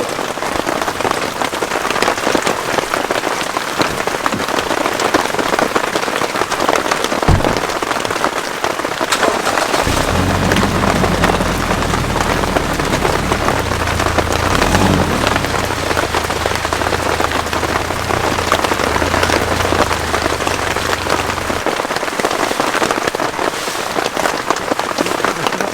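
Heavy rain falling steadily, an even hiss of drops. A low steady rumble comes in about ten seconds in and stops about eleven seconds later.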